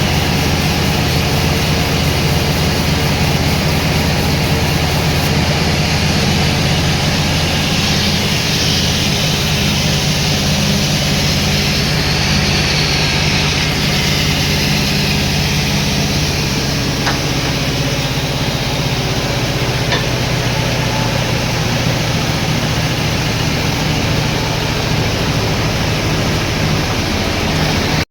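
Sawmill machinery running steadily: a low motor hum under a broad rushing noise, the hum shifting in pitch a little over halfway through.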